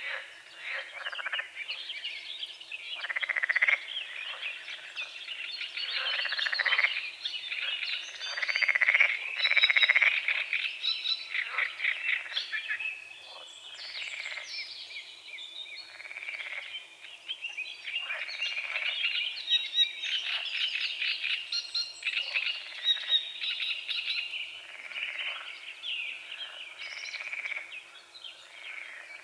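Chorus of frogs croaking in rapid rattling runs that swell and fade, loudest about a third of the way in, with songbirds singing over them.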